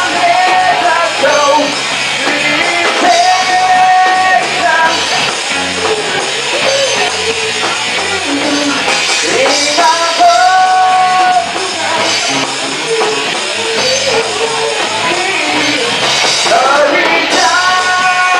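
Rock band playing with a lead singer, who holds several long sung notes over the guitars and drums.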